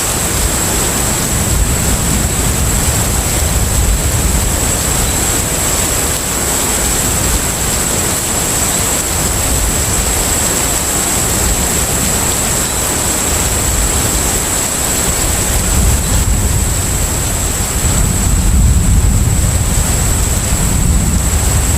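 Container ship at sea: a steady deep rumble under an even wash of noise, with a thin, steady high-pitched tone over it. The rumble swells a little near the end.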